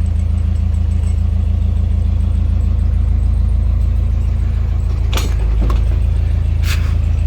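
Narrowboat diesel engine idling steadily, a low, even chugging. A couple of brief clicks or knocks sound about five seconds in.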